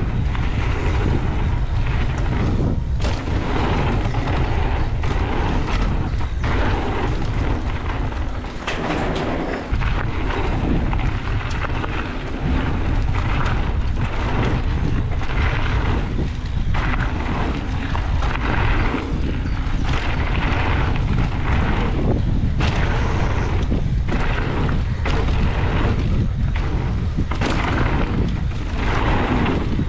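Heavy wind buffeting the microphone of a camera on a mountain bike ridden fast down a dirt trail, with tyre noise and frequent knocks and rattles of the bike over bumps.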